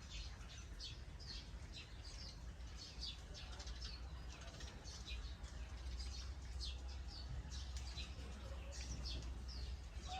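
Small birds chirping: many short, high, downward-sliding chirps, two or three a second, over a steady low rumble.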